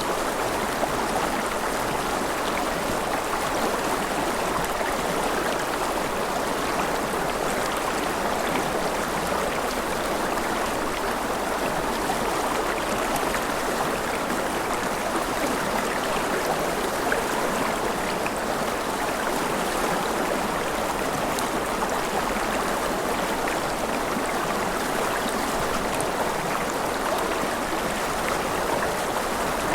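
Mountain river with rapids, water rushing over rocks in a steady, even flow.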